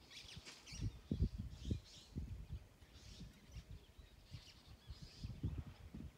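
Birds chirping and calling in the background, scattered short calls throughout, with irregular low rumbles that come and go.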